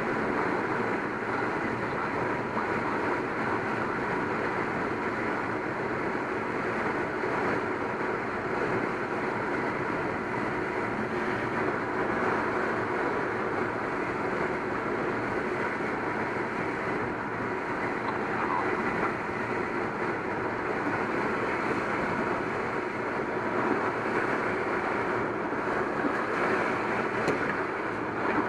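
Steady rush of air past the cockpit of a Schweizer 1-26 single-seat glider in flight on the landing approach, with no engine.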